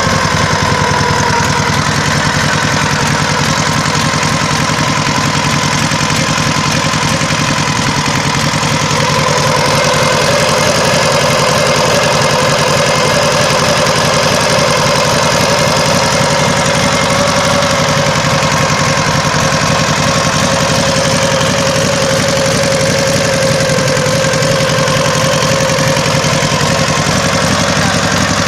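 Dnepr motorcycle's flat-twin four-stroke engine idling steadily on propane, fed through a single carburettor. About nine seconds in it gets slightly louder.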